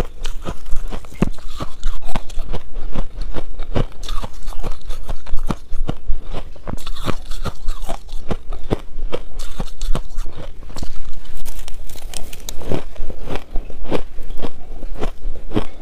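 Close-miked crunching and chewing of shaved ice in the mouth: a dense, irregular run of sharp crunches and crackles, several a second.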